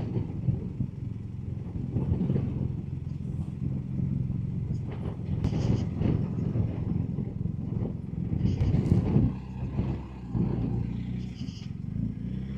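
BMW R1250 GS Adventure's boxer-twin engine running at low road speed, a steady low drone, with several short surges of wind noise across the microphone.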